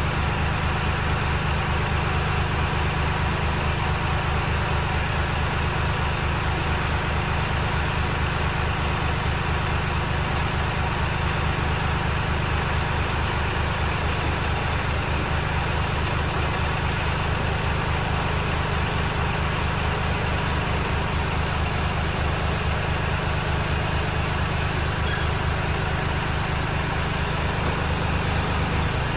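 The engine of a loader tractor fitted with pallet forks and a grapple, running steadily at a constant speed.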